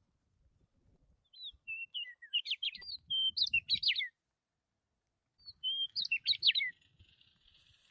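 A bird singing two bursts of quick chirps and whistled sliding notes. The first starts about a second and a half in, the second about five and a half seconds in.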